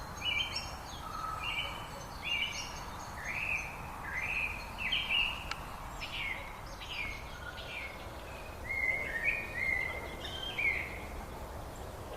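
Songbirds singing: a run of short chirps and quick falling whistled notes, one after another, over a steady low background hiss.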